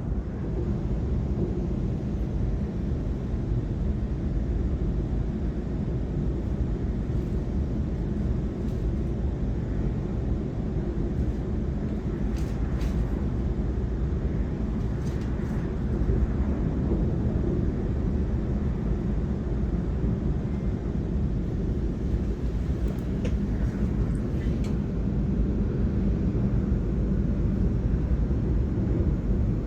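Electric suburban train running at speed, a steady low rumble of wheels on rails, with a few faint high squeaks or ticks about halfway through and again later.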